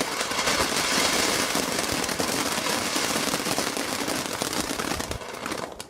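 A firework crackling in a dense, rapid stream of tiny pops. It dies away near the end.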